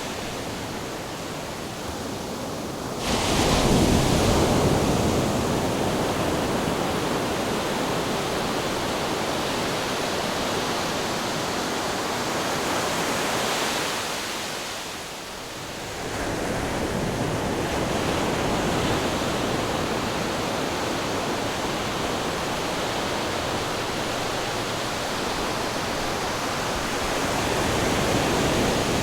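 Ocean surf: a continuous rush of waves, with a loud surge about three seconds in and a brief lull about halfway through before it builds again.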